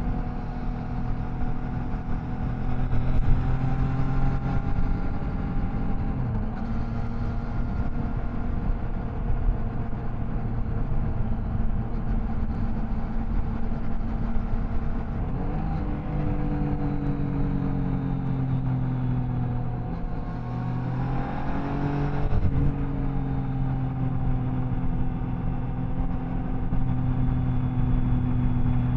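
Triumph Tiger Sport 660's three-cylinder engine running steadily under way. About halfway the revs lift briefly and ease off slowly. Around twenty seconds in they climb for about two seconds, then drop back to a steady pitch.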